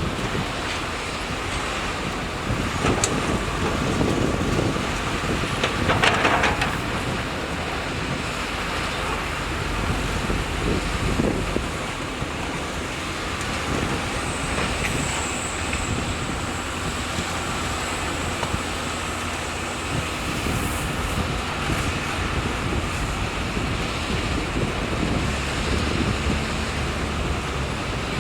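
Excavator engine running steadily at work, with a few clatters, the loudest about six seconds in.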